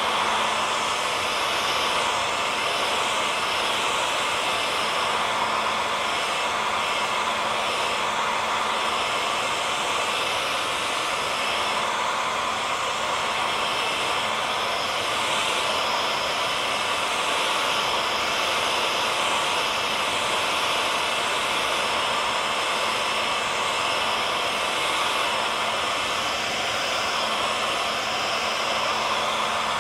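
Hair dryer running steadily: an even rushing noise of fan and airflow with a faint motor hum, holding the same level throughout.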